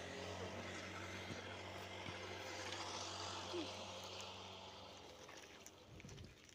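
A motor vehicle's engine running with a steady low hum, fading away over the last couple of seconds.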